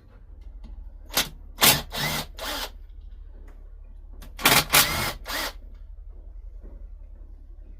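Handheld power driver spinning in short bursts, undoing the bolts of a motorcycle engine case: four quick bursts, then a longer run of bursts a few seconds later, over a steady low hum.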